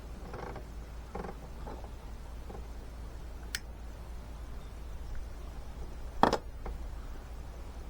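Tools or parts being handled during engine work: faint rustling and knocking, one sharp click about three and a half seconds in, and a louder knock a little after six seconds, over a steady low hum.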